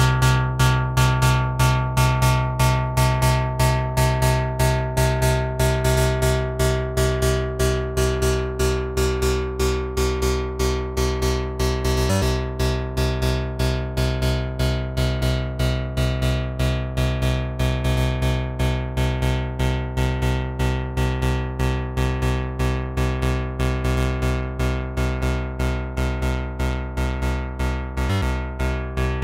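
Malekko Manther analog synthesizer playing a fast repeating bass sequence, about four to five notes a second. A bright resonant overtone slides slowly down over the first dozen seconds as its parameters are tweaked.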